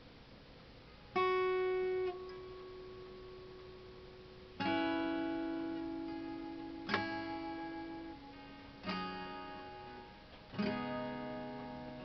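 Acoustic guitar played slowly without singing. A chord about a second in is damped after a second. Four more strummed chords follow, a couple of seconds apart, each left to ring and fade.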